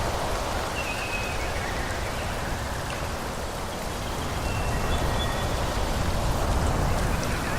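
Wind blowing through a forest: a steady rushing noise over a low rumble, growing a little louder after the middle. A few short high whistled notes come through about a second in, around the middle and near the end.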